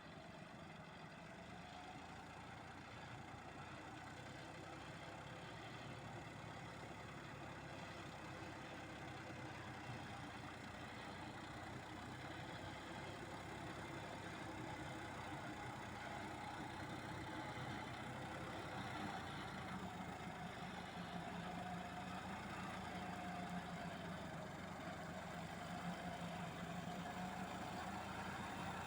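John Deere tractor engine running steadily under work, growing gradually louder.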